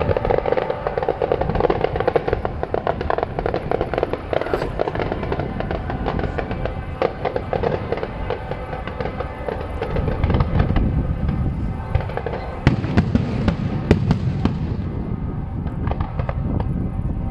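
Fireworks display: a dense, continuous crackle of small pops over a low rumble, with louder single bangs in the second half.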